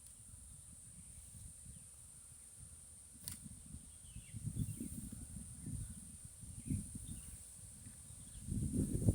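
Outdoor nature ambience: a steady high-pitched insect drone with faint short bird chirps, over uneven low rumbling that grows louder near the end. One sharp click about three seconds in.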